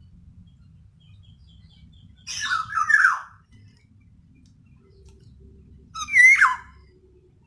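Female black-naped oriole giving harsh, nasal squawking calls: a doubled call about two seconds in and a single call near six seconds, each sliding down in pitch. This female call is used as a lure to prompt male orioles to sing.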